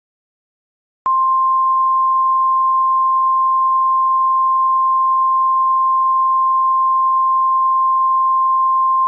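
Emergency alert attention tone: a single loud, steady electronic tone just above 1 kHz that starts abruptly about a second in and holds unchanged.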